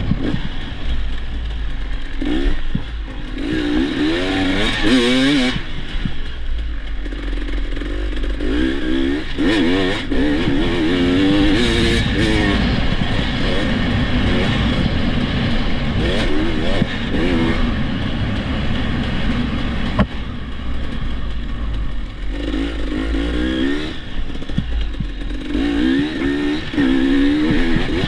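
Dirt bike engine being ridden, its pitch rising and falling again and again with the throttle, over a constant low rumble.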